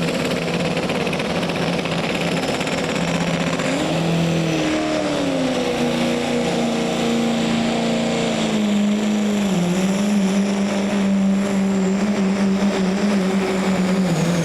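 Diesel engine of a pulling vehicle running hard under load. Its pitch rises about four seconds in, then sags gradually and drops a step near ten seconds.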